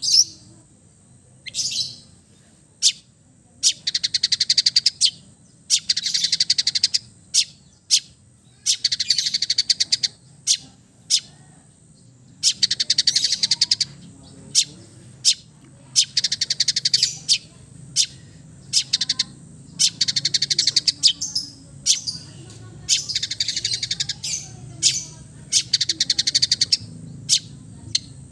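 Long-tailed shrike (cendet) singing: bouts of rapid, harsh chattering about a second long, repeated over and over and broken by single sharp call notes.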